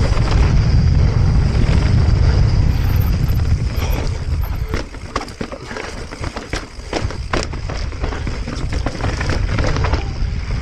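Wind buffeting the action camera's microphone as a Transition Patrol Alloy mountain bike is ridden on a dirt trail. From about four seconds in, the wind drops and a run of sharp clicks and knocks follows: the bike rattling over rough ground. The wind rumble comes back near the end.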